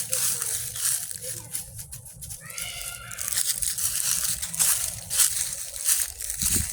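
Crunching and rustling of footsteps through dry leaves and brush, with a short high-pitched call about two and a half seconds in.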